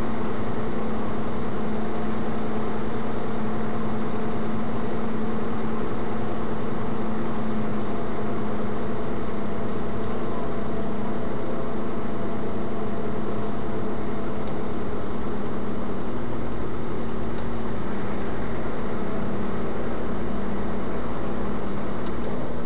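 Vehicle engine running at a steady speed, heard from inside the cab as an even hum with road noise and a steady low tone that holds throughout.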